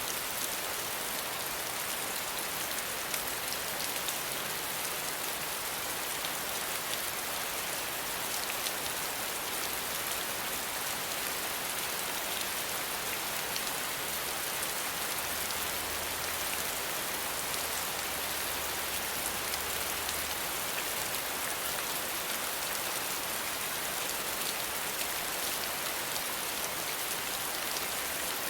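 Steady rain falling, a constant even hiss with many fine drop ticks.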